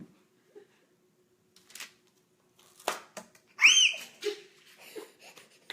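Homemade slime with styrofoam beads being squeezed and played with in the hands, giving sharp wet pops and clicks. A short, high squeal that rises and falls comes through loudest about three and a half seconds in.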